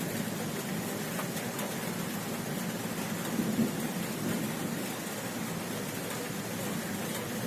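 Heavy thunderstorm rain falling steadily, with a low rumble of thunder swelling briefly about halfway through.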